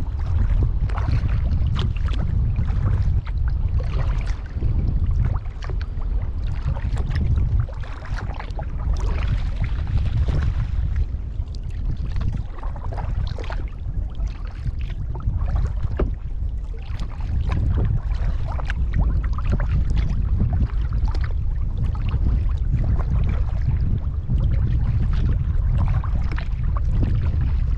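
Kayak paddling on the water: paddle blades splashing and dripping in irregular strokes over a steady low rumble.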